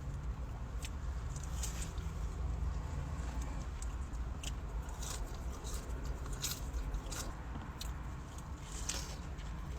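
Close-miked chewing of a crispy fried chicken burger: scattered crisp crunches and crackles of the breading, about a dozen spread through, over a steady low rumble.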